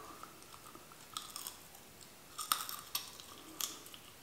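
Close-miked chewing of crab meat: soft wet mouth sounds with a few sharp clicks and smacks.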